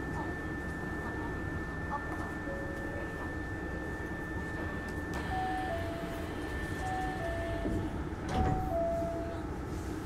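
Train interior ambience aboard a Hankyu 9300 series train: a steady rumble with a thin high tone that stops near the end. A two-note falling chime sounds three times from about five seconds in, and a knock comes with the third chime.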